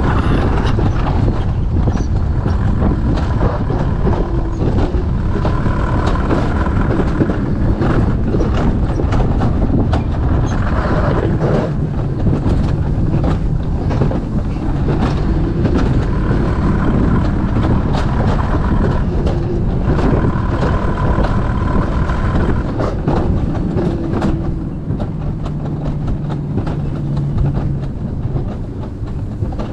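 Alpine coaster sled running down its metal rail track: a steady rattling rumble full of rapid clicks, with a faint whine that comes and goes.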